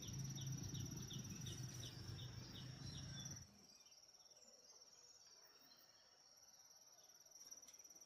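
An insect trilling steadily on one high pitch, with a run of soft, even ticks about three a second at first. A low noisy background drops away suddenly about three and a half seconds in.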